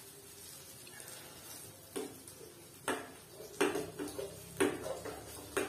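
A cooking utensil knocking against a pot or pan about six times at irregular intervals, each knock ringing briefly. The knocks start about two seconds in.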